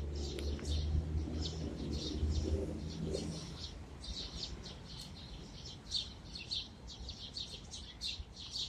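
A flock of birds at a feeder chirping loudly, many short high chirps overlapping without a break. A low background rumble fades out about three and a half seconds in.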